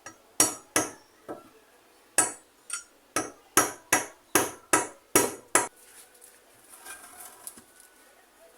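A hammer striking about a dozen times in a steady run, roughly two or three blows a second, then stopping about two-thirds of the way in.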